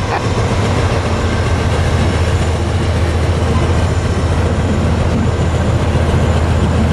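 Double-stack container cars of a freight train rolling across a girder bridge: a loud, steady low rumble of wheels and cars.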